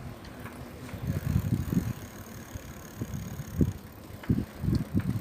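Bicycle riding along a road, with irregular low rumbling gusts of wind on the microphone.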